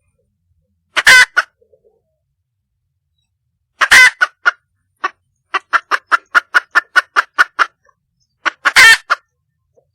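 Junglefowl hen calling for a male: three short, loud, harsh calls, about a second in, about four seconds in and near the end, with a quick run of about a dozen clucks between the second and third.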